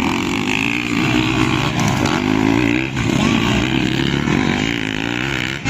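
Off-road motor vehicle's engine revving up and down repeatedly, its pitch rising and falling, with a brief drop about three seconds in.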